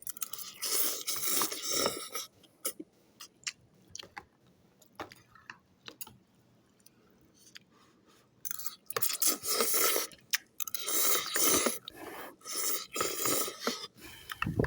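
Ramen noodles being eaten close to the microphone: chewing, with long noisy slurps near the start and through the second half and small clicks in between.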